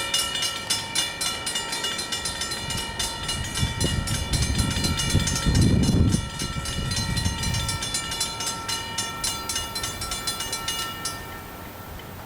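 Railroad grade-crossing bell ringing in fast, even strokes, stopping about a second before the end. A low rumble comes in briefly around the middle.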